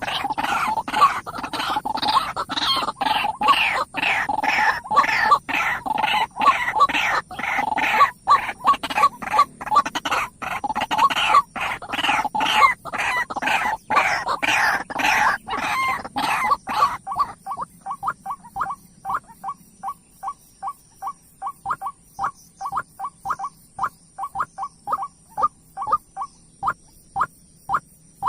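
Birds calling in rapid, overlapping short notes. About 17 seconds in, this thins to a single steady series of short calls, about two a second.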